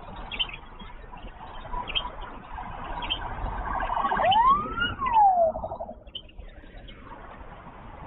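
Road traffic noise that swells as a vehicle passes, with one rising-then-falling whine at its loudest, about four to five seconds in, before it drops away.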